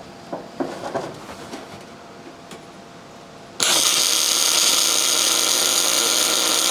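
A few light metal knocks, then about three and a half seconds in a welder starts a bead on the Volkswagen Bus outrigger and runs steadily for about three seconds before cutting off abruptly.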